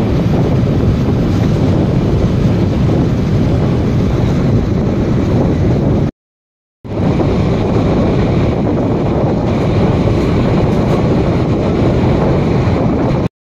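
Wind rushing over a microphone held out of a moving passenger train's window, over the steady running rumble of the train. The sound cuts out to silence for about half a second around six seconds in and again near the end.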